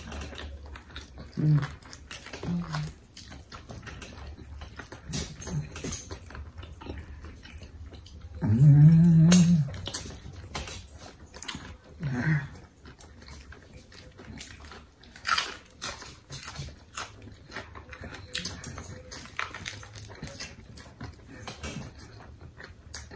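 Close-up chewing and wet mouth noises of people eating sub sandwiches: many scattered clicks and smacks, with a few short low vocal sounds, the longest and loudest about nine seconds in.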